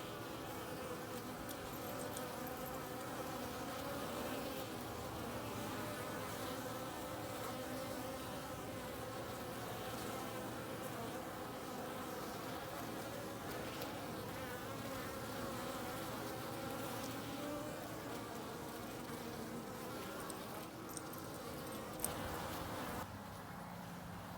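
Honeybees buzzing en masse around a newly hived colony of Carniolan bees: a steady, dense hum of many overlapping wavering tones. Near the end there is one sharp click, and the buzzing then drops off abruptly.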